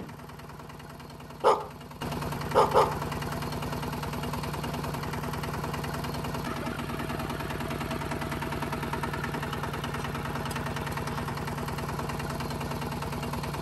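A small motor running steadily, its hum stepping up in level about two seconds in. Three short animal calls sound over it in the first three seconds.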